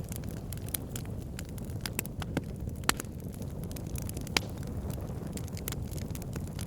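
Wood fire crackling in a fireplace: a steady low rumble of flames with frequent irregular pops and snaps, two sharper pops about three and four and a half seconds in.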